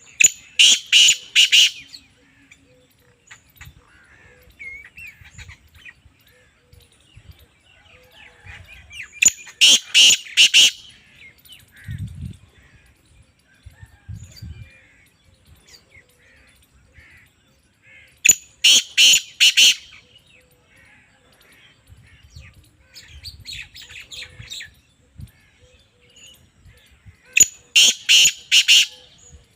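Black francolin calling: four loud, grating phrases of about five harsh notes each, repeated roughly every nine seconds. Fainter chirps of other birds are heard between the calls.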